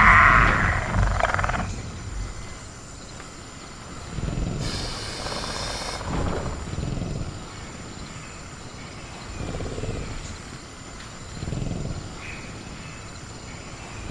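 Sound-designed velociraptor screech that fades out over the first two seconds, followed by quieter low growls and rumbles, with a brief high-pitched call about five seconds in. A faint, steady insect drone sits underneath.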